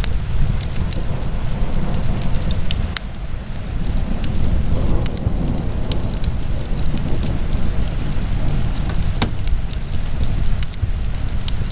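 Wood fire burning in a fireplace: a steady low rumble of the flames with constant fine crackling. Two sharper pops stand out, about three seconds in and again near nine seconds.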